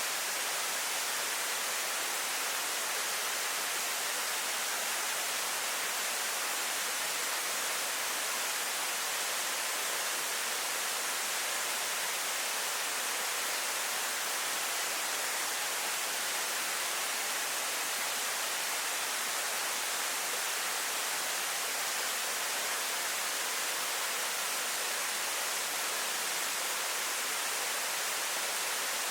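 Yakushima's Primitive Waterfall: falling water making a steady, even, hissing rush that does not change.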